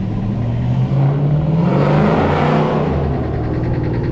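A car engine revving as it accelerates past close by, its pitch climbing and the sound swelling to its loudest about halfway through before easing off.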